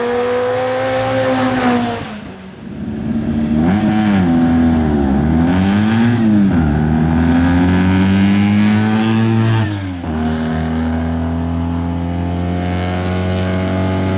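Race car engine at a hillclimb start line, revving: held at high revs, then several quick throttle blips up and down, then revs held and slowly rising. About ten seconds in this changes to a steady, even engine note.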